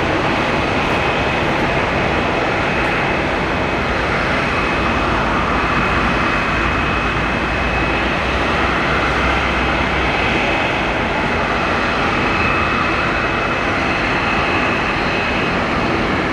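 Boeing 747-400 jet engines running loud and steady: a rushing roar with a steady high-pitched whine on top.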